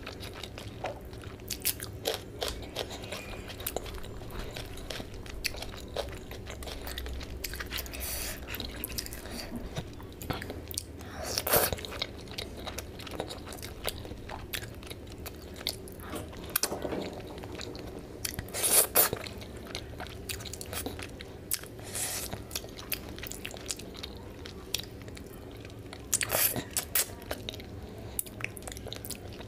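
Close-miked chewing and wet mouth sounds of someone eating rice and fish curry by hand. There are many irregular small clicks and smacks, with louder bursts of smacking about a third of the way in, about two-thirds in and near the end.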